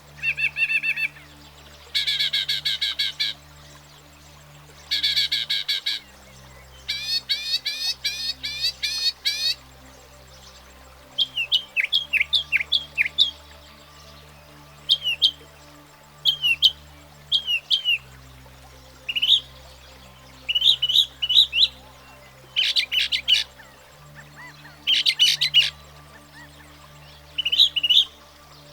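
Northern mockingbird singing: a string of different phrases, each a quick run of the same note repeated several times, with short pauses between phrases and the note type changing from one phrase to the next.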